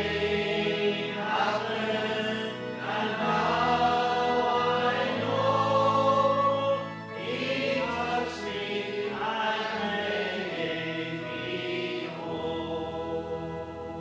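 Church congregation singing the closing worship song together over sustained instrumental chords, with the bass changing every couple of seconds.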